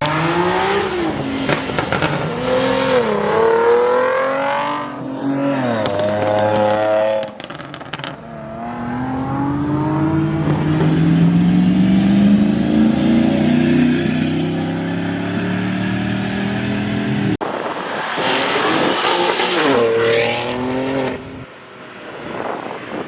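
Cars accelerating hard one after another, their engines revving up through the gears with a dip in pitch at each shift, in about three separate runs.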